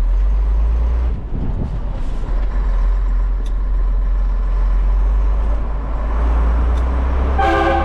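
1989 Scania 93M 280 lorry's nine-litre six-cylinder diesel engine running steadily under way, a deep rumble. Near the end a multi-tone horn blasts briefly.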